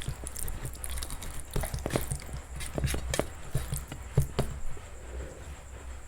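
Close-miked eating sounds: a person chewing food, with irregular sharp crunches and mouth clicks.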